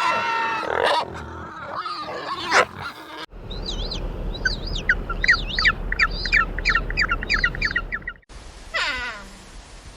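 Separate animal recordings cut together. First comes a pitched animal call, then, after a sudden cut, about five seconds of a small bird chirping rapidly over and over. Near the end, after another cut, a cat meows once in a falling call.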